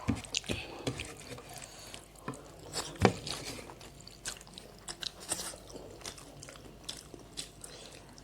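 Close-up eating sounds: chewing and biting food, with scattered crunches and wet mouth clicks, and one sharper crunch about three seconds in.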